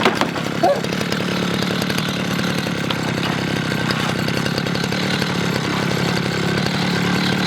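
Power saw running steadily under load, cutting through the rusted sheet-metal body of a Mazda RX-7.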